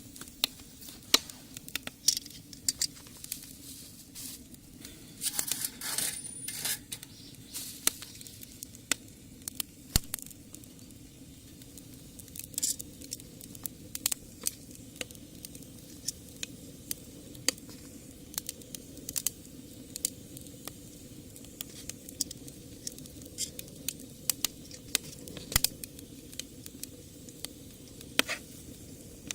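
Wood fire in a homemade brick rocket stove crackling, with sharp irregular pops and a steady low hum beneath. A denser flurry of crackles comes about five seconds in and lasts a couple of seconds.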